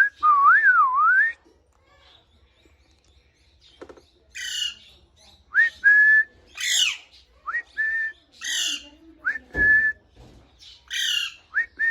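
Pet parrot whistling: a wavering whistle that slides up and down at the start, then, after a pause, short rising whistle notes alternating with harsher raspy calls. A dull thump sounds once between them.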